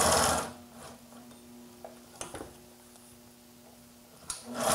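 HDSew PortaWalker walking-foot industrial sewing machine stitching for about half a second and then stopping. Its motor hums steadily while it waits, with a few light clicks near the middle, and stitching starts again right at the end.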